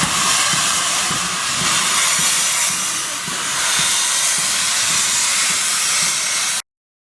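Steam hissing loudly and steadily from Ivatt Class 2MT 2-6-2T tank locomotive No. 41313, cutting off suddenly about six and a half seconds in.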